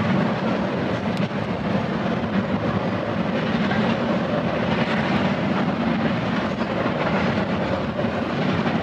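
Double-stack container freight train cars rolling past, a steady noise of steel wheels on the rails.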